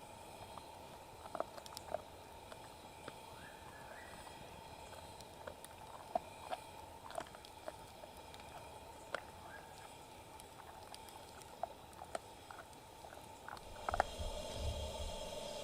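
Campfire crackling: irregular sharp pops and snaps over a steady hiss, with a faint rising whistle a few seconds in. Near the end a low rumble and more noise come in.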